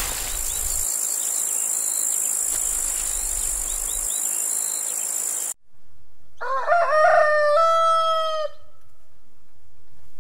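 A rooster crowing once, a single call of about two seconds that rises and then holds level, starting about six seconds in. Before it there is a steady high hiss with a few faint chirps.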